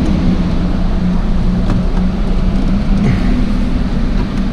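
Steady low hum of a Dodge Challenger heard from inside its cabin, with a few faint clicks.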